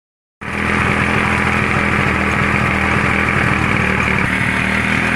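Motorcycle engine running steadily while driving a water pump. The sound drops out for about half a second at the start, then resumes.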